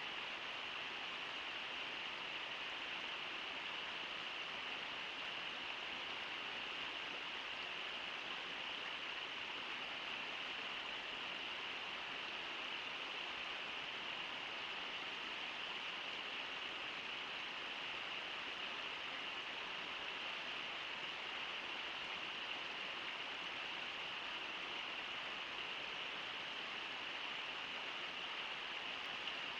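Steady, even rush of river water pouring over Brooks Falls.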